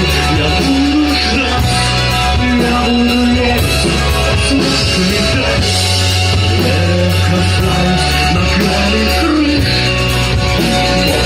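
Rock music: a band playing with steady bass notes under a moving melodic line, at an even loud level throughout.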